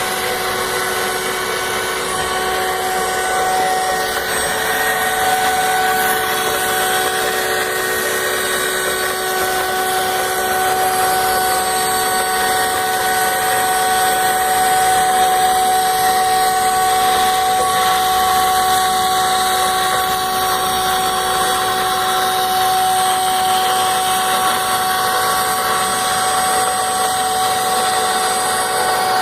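CNC router spindle running steadily as it cuts acrylic (plexiglass) sheet: a constant whine of several held tones over the hiss of the cut.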